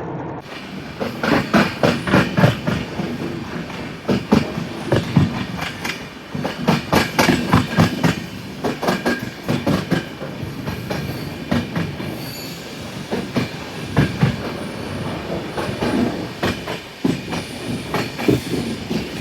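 Passenger train's wheels clattering over rail joints, with rapid clusters of clicks over a steady rumble of the moving coaches. Faint brief high squeals come in the second half.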